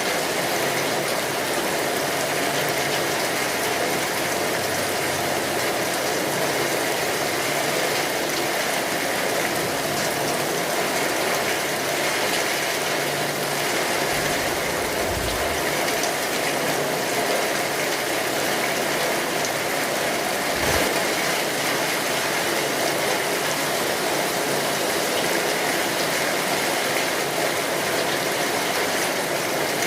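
Steady rainfall: an even, dense patter of drops. A brief low rumble comes about halfway through, and a short low thump follows a few seconds later.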